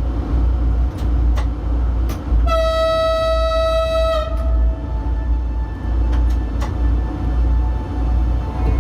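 A train passing with a heavy low rumble and occasional sharp clicks. Its horn sounds once, a single steady note held for nearly two seconds about two and a half seconds in.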